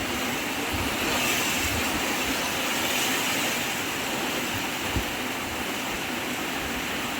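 Strong wind blowing in a steady rush, with low thumps where gusts buffet the microphone, one clear one about five seconds in.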